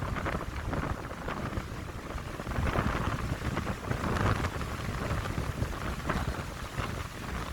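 Wind blowing through pine trees, rushing in uneven gusts that swell about three and four seconds in, with a low rumble of wind on the microphone.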